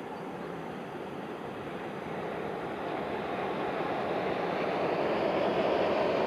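Shinkansen bullet train running at speed along an elevated viaduct: a steady rushing noise that grows louder as the train approaches.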